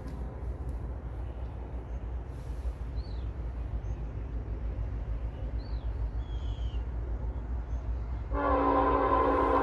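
Diesel freight locomotive's multi-chime air horn sounding a long blast that starts near the end, over the steady low rumble of the train.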